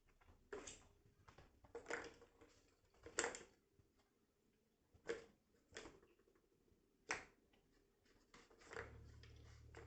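Bengal kittens moving about: about seven short, scattered scuffs and taps. A low steady hum comes in near the end.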